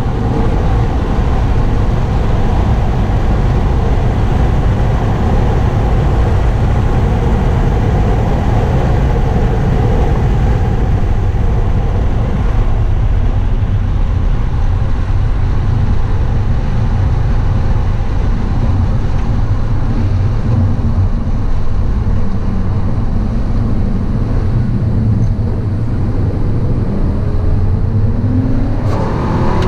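HSV Clubsport's supercharged 6.2-litre LSA V8 at track speed, heard from inside the cabin along with heavy road and wind noise. Near the end the engine note climbs as the car accelerates.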